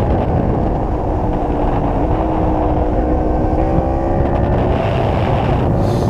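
Motorcycle engine running at road speed, its pitch climbing slowly as the bike gently accelerates, under a heavy wind rumble on the microphone.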